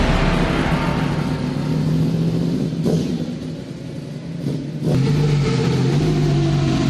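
Superbike engine running hard on the track. The sound fades about three seconds in and comes back suddenly about five seconds in.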